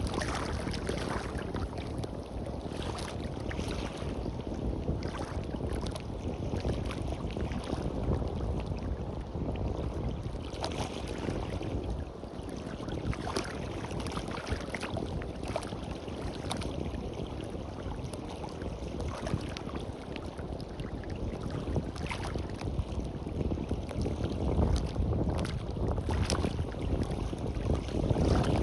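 Waves washing onto a beach, with wind buffeting the microphone in a steady low rumble.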